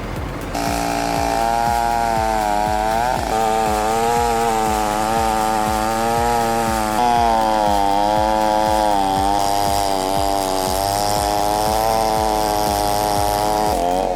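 Two-stroke chainsaw running at high revs while cutting into a large log, its pitch wavering up and down as the bar bites and eases.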